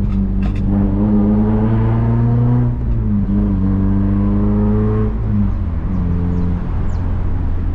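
Honda Civic Si engine running under light load, its note rising gently and then easing off twice before settling to a steady, lower hum.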